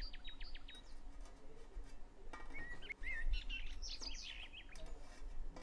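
Small birds chirping: quick runs of short high calls at the start and again past the middle, with a couple of warbling notes in between. There are a few faint clicks under them.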